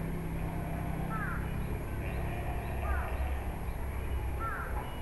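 A few short, falling bird chirps, about three in all, over a steady low outdoor rumble.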